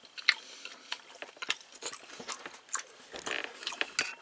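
A person chewing a soft, chewy potato dumpling (ongsimi) with small wet mouth clicks, then a metal spoon stirring and clinking in a glass bowl of soup near the end.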